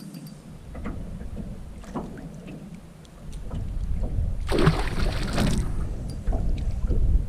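Water sloshing and splashing at a canoe's side while a hooked northern pike is fought, over a low rumble, with a louder burst of splashing about four and a half seconds in.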